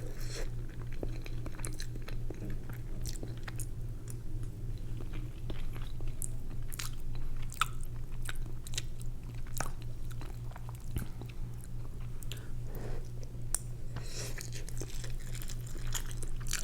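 Close-miked chewing and mouth noises of a person eating leftover Rice-a-Roni, with many small scattered clicks and smacks, over a steady low electrical hum.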